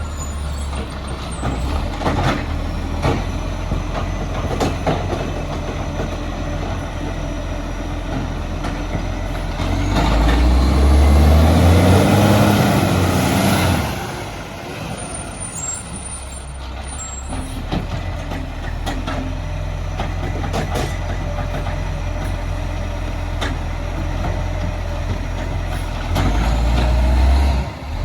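Recycling garbage truck's diesel engine running steadily, then revving up and back down for a few seconds about ten seconds in, and briefly again near the end. Scattered knocks and clatter come through it.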